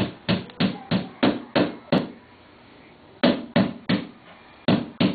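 Repeated sharp knocks, about three a second, in three short runs with brief pauses between, each knock ringing briefly.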